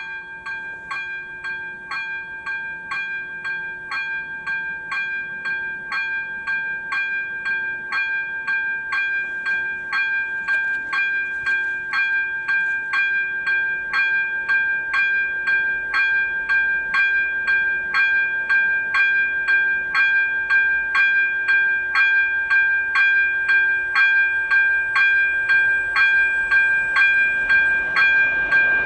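Electronic level-crossing warning bell (AŽD E-bell ZV-02) switching on suddenly and ringing at a steady, even rate of about two strokes a second: the crossing warning activating for an approaching train.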